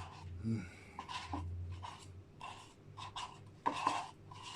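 A spoon scraping and stirring soft McFlurry ice cream in a bowl, a run of short, irregular scrapes.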